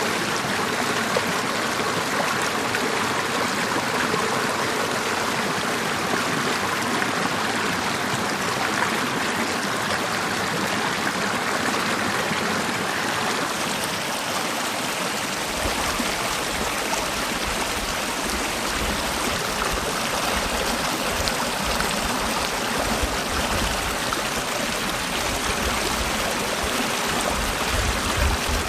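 Mountain valley stream: a steady, even rush of flowing water. About halfway through, a low, flickering rumble joins underneath.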